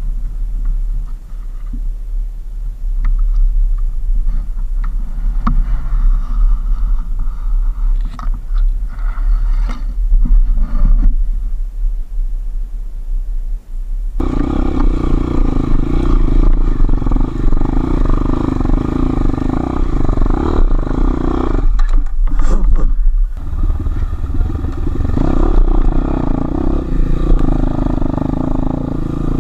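Enduro motorcycle engine running as the bike is ridden off-road. For the first half it is mostly a low rumble with scattered clatter. About halfway in it turns suddenly much louder and steadier, with a brief drop about three quarters of the way through.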